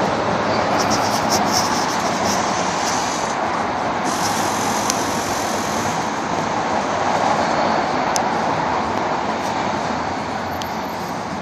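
Small potassium nitrate and sugar (rocket candy) motor burning in a static test: a loud, steady rushing hiss with scattered sharp crackles, easing slightly near the end.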